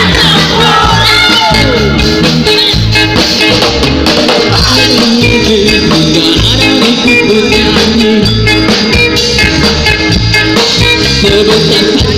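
A band playing music with a steady beat.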